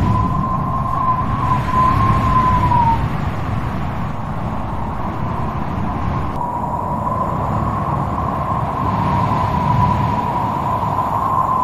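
Strong wind blowing with a low rumble and a high, wavering whistling howl that holds near one pitch, first for about three seconds, then again from about halfway through to the end.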